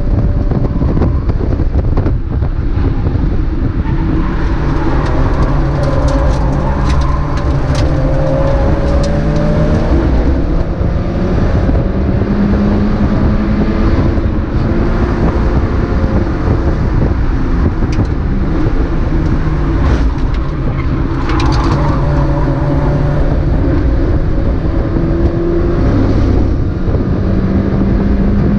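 Mazda MX-5 race car's engine running hard, its note rising and falling as it accelerates and changes gear, over steady wind and road noise, with a few short clicks.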